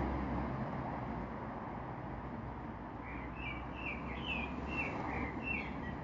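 A bird chirping: a quick run of about eight short chirps starting about halfway through, over steady background noise.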